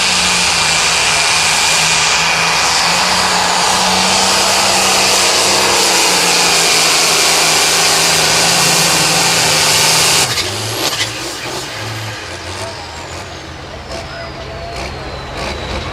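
Diesel pulling tractor at full throttle, dragging the weight sled down the track, loud and steady for about ten seconds. Then the throttle is cut at the end of the pull: the engine drops suddenly and a whistle slowly falls away as it winds down.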